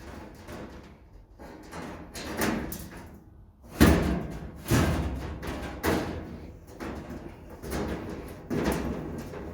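A series of knocks and thumps, the loudest about four seconds in.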